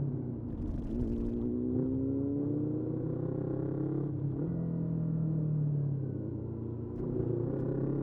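Motorcycle engine under way, its note rising as it accelerates, dropping sharply about halfway through, then holding and climbing again near the end.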